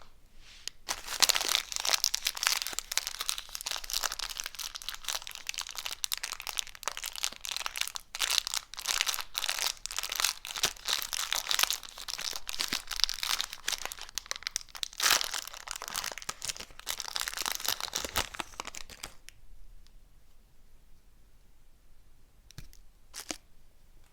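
Plastic sweet and lollipop wrappers crinkling and tearing as they are unwrapped by hand, a dense run of crinkling that stops about 19 seconds in. Near the end, two short faint rustles.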